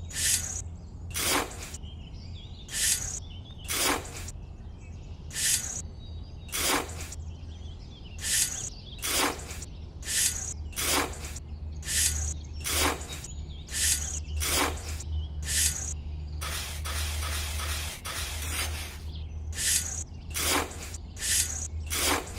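Short rasping, hissing strokes repeated about once a second over a steady low hum, with a denser stretch of continuous hiss about two-thirds of the way through.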